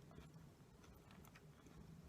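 Faint chewing of a sweet snack, with a few soft crisp clicks from the mouthful over a low steady background hum.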